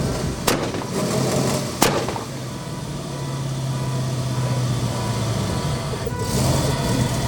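A vehicle engine running steadily with a low hum, with two sharp clicks about a second and a half apart near the start.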